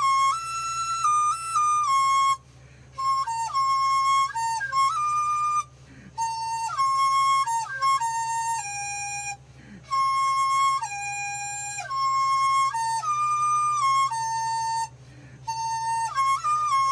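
A dizi (Chinese bamboo flute) plays a solo melody of held notes with slides and quick ornaments between them, pausing briefly for breath between phrases. A faint steady low hum runs underneath.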